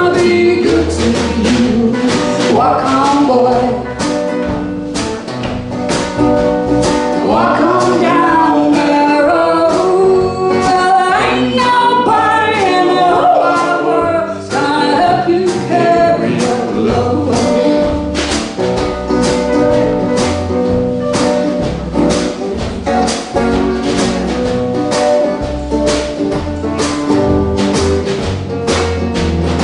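Live performance of a song: singing over accompaniment for roughly the first half, then an instrumental stretch of held chords with a steady, evenly struck beat.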